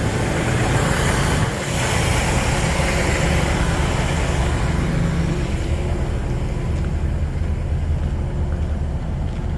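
Engine of a Sterling six-wheel-drive water truck running steadily, with a hiss that fades out about six seconds in.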